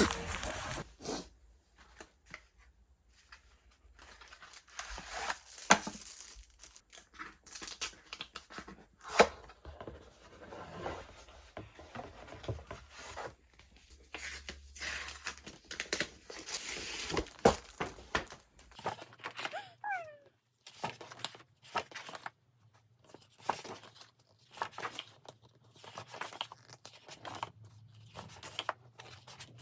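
Paper and plastic packaging being torn open, crinkled and handled in a small room: a string of sharp rustles and clicks, with a brief sliding squeak about 20 seconds in.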